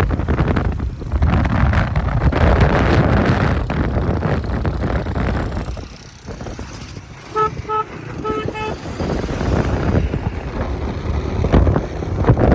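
Wind rushing over the microphone with road noise from a moving motorcycle, easing about six seconds in. A vehicle horn sounds a few short beeps a little past the middle.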